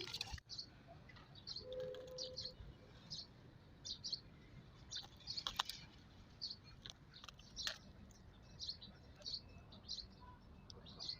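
A bird chirping over and over in short, high calls about once or twice a second, with a few sharp taps or clicks now and then.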